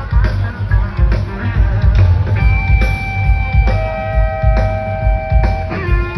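Live rock band playing an instrumental jam: electric lead guitar over a steady drum kit beat. Quick runs of guitar notes give way, about two seconds in, to long held notes, with a lower note taking over near the end.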